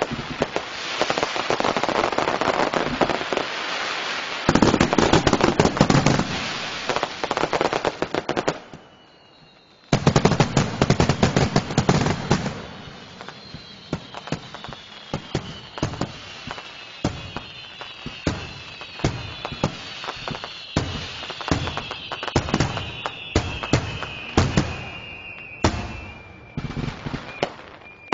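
Fireworks display: dense, rapid crackling and banging of aerial shells, with a short lull about nine seconds in. In the second half, several high whistling tones glide slowly down in pitch over the bangs.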